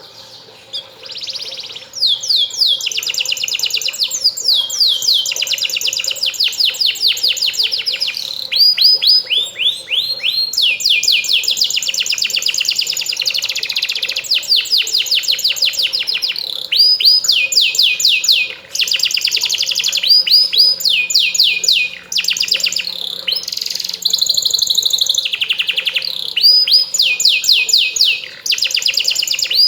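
Domestic canary singing loud, fast rolling trills of rapidly repeated high sweeping notes, in phrases of a few seconds broken by short pauses: the vigorous full song used as a lure to set other canaries singing.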